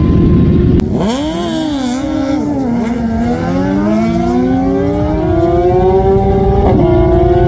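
A vehicle's engine revving: its pitch drops about a second in, wavers up and down, then climbs steadily as it accelerates.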